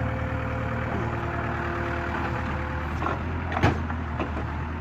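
Tractor diesel engine running steadily at a low, even hum, with one sharp knock a little past halfway.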